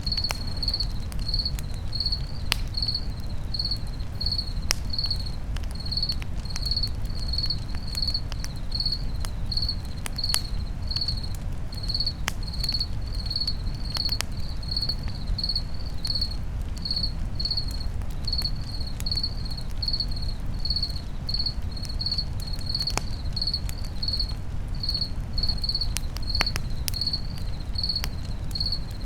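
Campfire crackling, with scattered sharp pops over a low steady rumble, while a cricket chirps steadily about twice a second.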